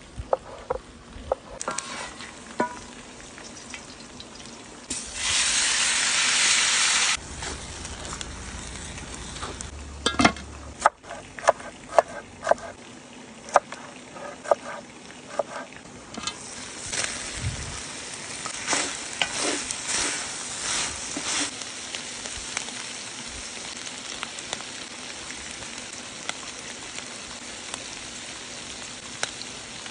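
Vegetables cooking over an open fire, with utensils knocking and scraping. About five seconds in there is a loud hiss lasting about two seconds, and from about halfway the food sizzles and crackles in the pan while it is stirred.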